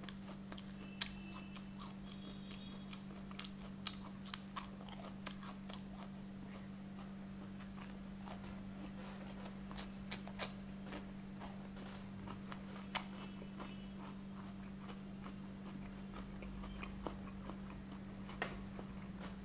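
A person chewing and biting crispy fried chicken, with scattered small crunches and mouth clicks over a steady low hum.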